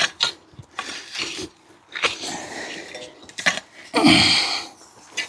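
Digging potatoes with a garden fork: a run of short, irregular scrapes and rustles of soil and potato plants, with a louder burst about four seconds in.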